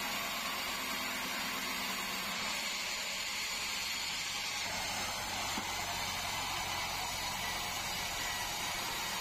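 Band sawmill running steadily: an even high hiss over a low motor hum, with no change in level.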